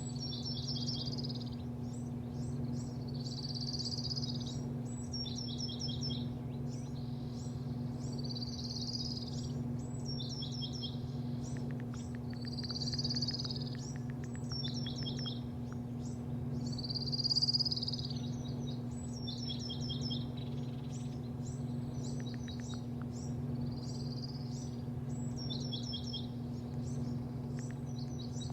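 Birds chirping, with short, quick high notes repeating every couple of seconds over a steady low machinery hum.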